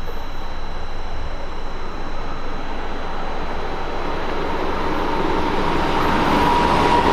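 An ICE high-speed train approaching along the track, its running noise growing louder over the last two seconds, with a high steady tone coming in near the end.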